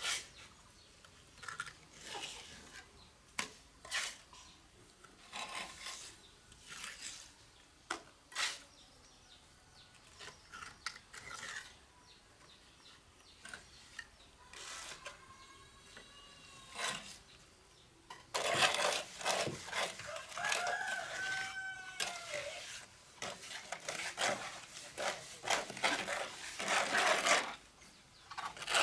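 A rooster crows twice, about halfway through and again a few seconds later, over scattered knocks and clicks. From about two-thirds in, a continuous rough scraping and rubbing sets in and runs on.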